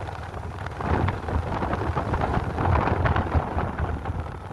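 Wind buffeting the microphone: an uneven, gusting low rumble with a rough hiss above it.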